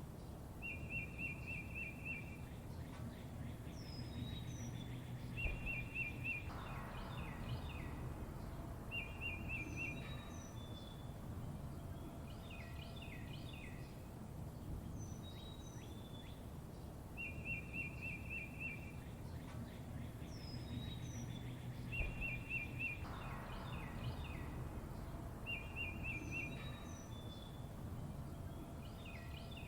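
Songbirds chirping: short, fast trills and brief falling whistles, repeating in a cycle of about 16 seconds, over a steady low background rumble.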